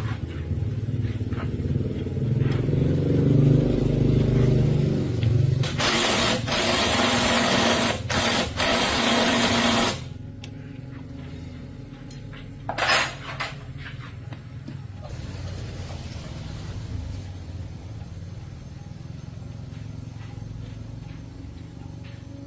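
Honda 110cc single-cylinder four-stroke motorcycle engine running, its pitch shifting for about ten seconds, then settling into a steadier, quieter run. A loud hissing rush sounds over it for several seconds in the middle.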